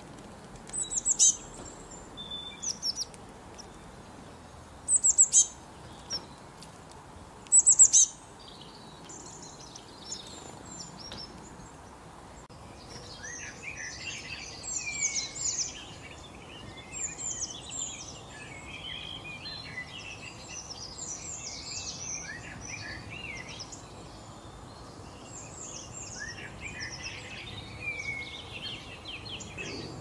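Songbirds calling. Three loud bursts of quick, high, downward-sweeping chirps come in the first eight seconds. From about thirteen seconds in, a busy chorus of several birds sings on.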